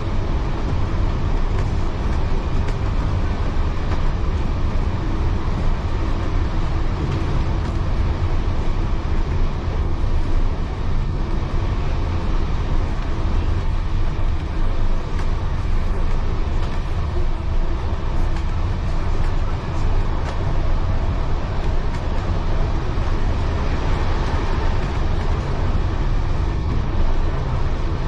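Heritage railway carriage running along the track, heard from inside: a steady low rumble of wheels on rail with a constant hiss of running noise.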